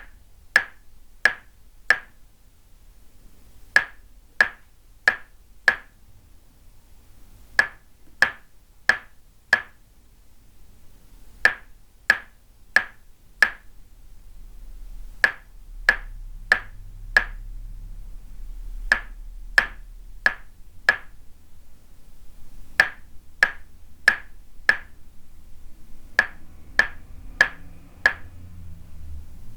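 Tok sen massage: a wooden mallet tapping a wooden peg held against the body, giving sharp ringing knocks. The knocks come in sets of four, about a second and a half apart, with a short pause between sets.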